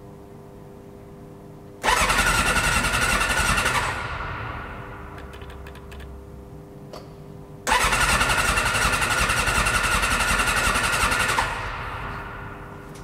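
Suzuki RF600R inline-four being cranked on its electric starter after winter storage: two tries, each starting suddenly and then fading away, with the engine not settling into an idle.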